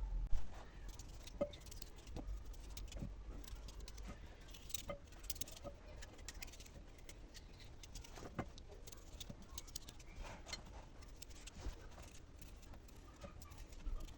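Kitchen handling sounds: irregular light clicks, taps and clinks, with one sharp knock about half a second in.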